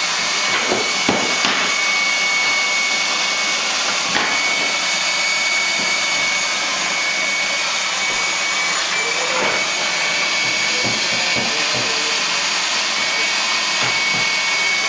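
Vacuum cleaner motor running steadily with a high whine, with a few short knocks.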